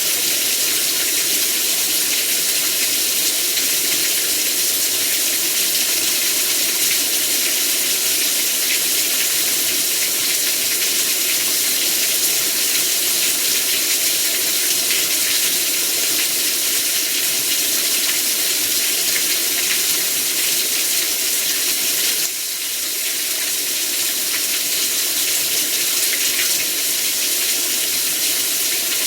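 Heavy rain falling in a steady, dense downpour. The level drops a little about three quarters of the way through, then builds back up.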